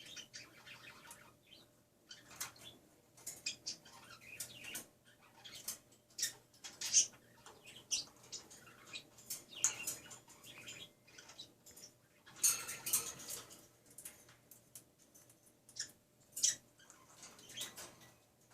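Cockatiel giving short, scattered chirps, with bursts of wing flapping and feather rustling.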